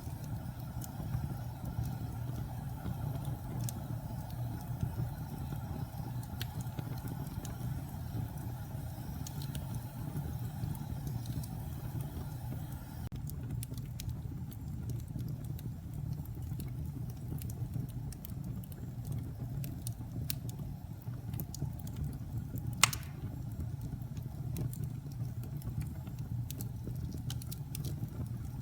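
Wood fire crackling in a fireplace: a steady low rumble of burning with scattered small crackles, and one sharp, louder pop near the end.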